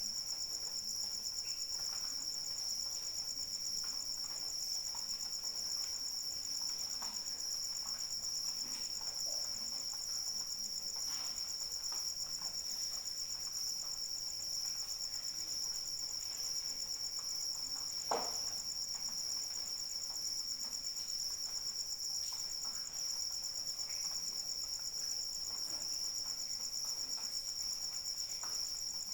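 Crickets chirping in a steady, unbroken chorus of high trills, over faint light rain with scattered drips. One sharper drip or tap stands out about eighteen seconds in.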